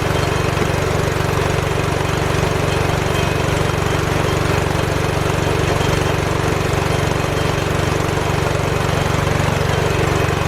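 Air compressor running steadily and loudly, its motor and pump building up tank pressure after the tank had dropped to about 50 psi.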